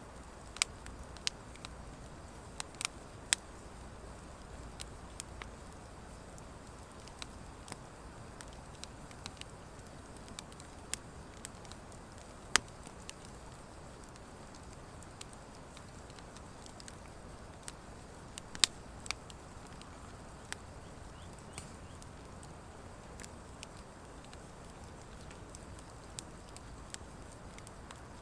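Wood fire of driftwood and dry hardwood burning, a low steady rush with irregular sharp crackles and pops, and a few much louder snaps, the loudest about twelve seconds in and again near nineteen seconds.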